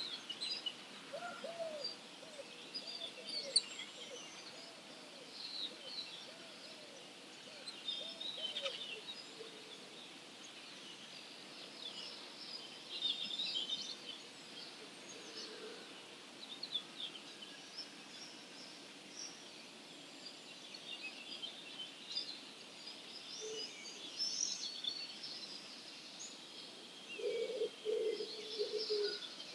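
Morning chorus of several wild Central European songbirds, with many overlapping high chirps, twitters and short phrases. Near the end a pigeon starts cooing in low, evenly pulsed notes.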